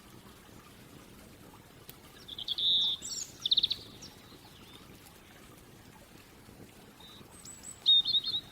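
A songbird singing two short phrases of quick, high chirping notes, the first about two seconds in and the second near the end.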